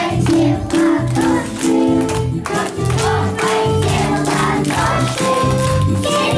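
A song: a group of voices singing over instrumental accompaniment with a steady beat.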